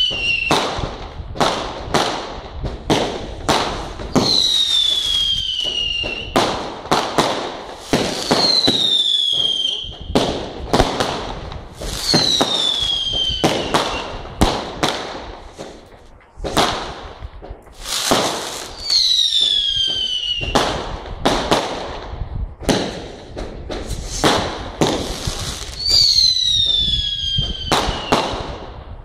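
Aerial fireworks display: a rapid string of sharp bangs and crackles, with five long whistles that each fall in pitch over about two seconds, coming every few seconds. The bangs thin out briefly around the middle, then pick up again.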